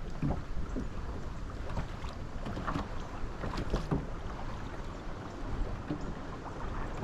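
Strong wind buffeting the microphone in a steady low rumble on a drifting boat, with scattered short knocks and splashes, most of them three to four seconds in.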